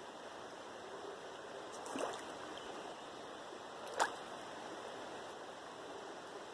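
Steady rush of a river flowing, with two short clicks about two and four seconds in, the second one sharper and louder.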